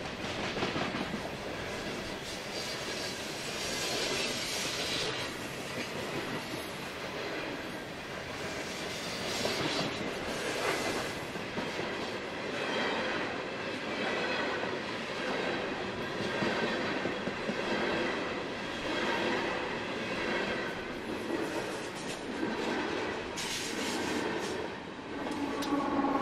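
Freight train's coal hopper cars rolling steadily past, their wheels clicking over the rail joints with a thin, high wheel squeal.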